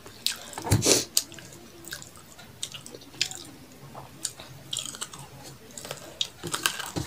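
Close-miked chewing of rice and curry eaten by hand, with wet mouth clicks and smacks, loudest about a second in, and soft squishing as fingers work the rice on a steel plate.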